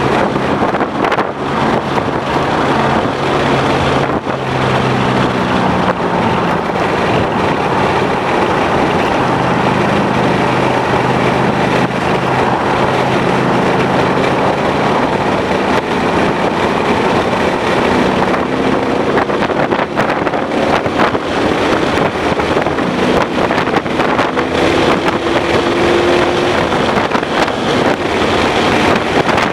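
2011 Ford Mustang GT's 5.0-litre V8 being driven hard, its pitch rising and falling as it accelerates and slows, under heavy wind and road noise.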